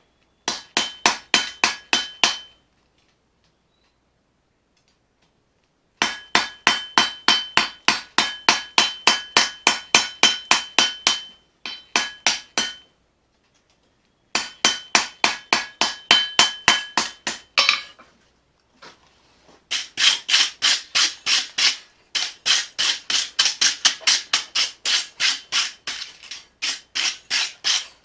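Hammer forging a knife blade from leaf-spring steel on an anvil: runs of steady blows, about three or four a second, with a ringing tone, broken by pauses of a few seconds. In the last long run the blows sound duller, without the ring.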